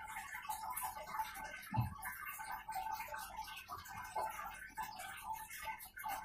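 Close-up chewing of a crunchy fried vegetable fritter (bakwan), with soft crunches and small mouth clicks. There is a low thump a little under two seconds in, over a faint steady hum.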